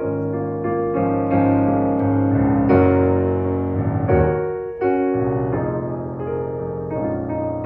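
Keyboard music on an electric piano, slow sustained chords changing every second or so.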